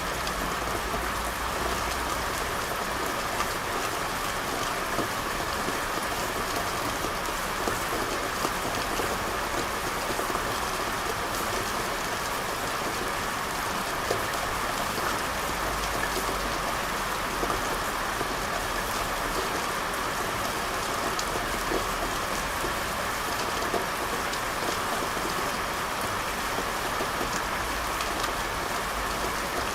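Steady rain falling on hard street surfaces, with scattered individual drops ticking through the hiss and a faint low rumble that comes and goes.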